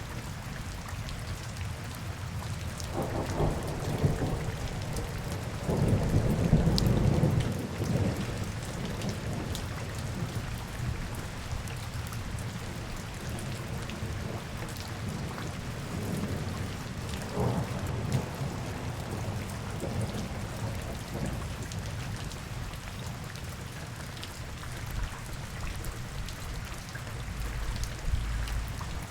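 Steady rain falling, with low rumbles coming and going; the loudest swells from about three to eight seconds in.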